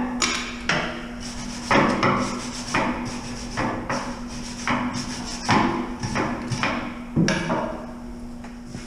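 A hammer striking steel about a dozen times in uneven, sharp blows, chipping slag off fresh 7018 stick welds on a tractor bucket's lifting hook. The blows tail off after about seven seconds, over a steady low hum.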